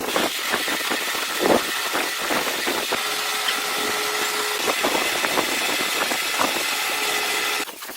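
A machine running steadily with a hiss, a few steady tones and many small clicks and rattles, cutting off suddenly just before the end.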